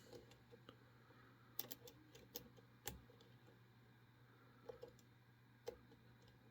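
Faint, scattered clicks of a lock pick working the pins of a pin-tumbler challenge lock under tension, with a cluster of clicks about one and a half to three seconds in and two more near the end.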